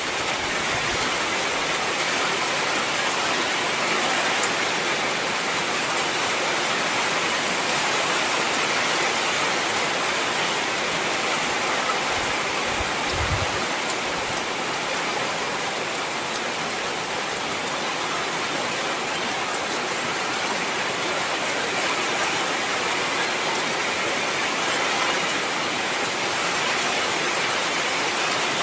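Heavy rain falling steadily, a dense even hiss of downpour with no let-up.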